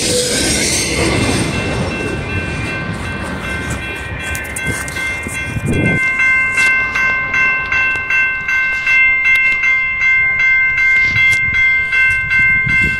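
Freight cars rolling past with a broad rumble and rail clatter that slowly fades. About six seconds in, a bell starts ringing steadily, about two strokes a second.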